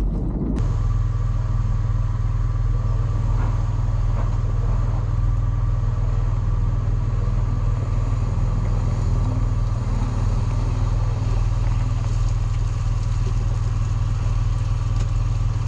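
Four-wheel-drive vehicle's engine running at a steady low drone that holds unchanged throughout.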